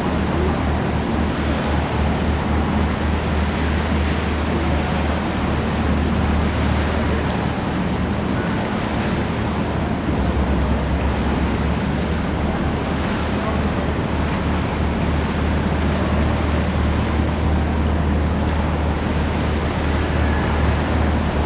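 Boat engine running steadily with a low drone, under the rush of water and wind buffeting the microphone.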